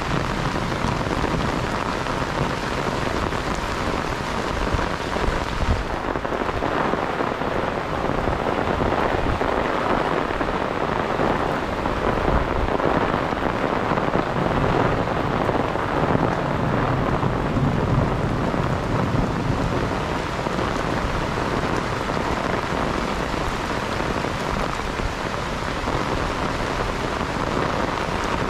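Steady rain falling and pattering on surfaces, a dense, even hiss that holds without a break.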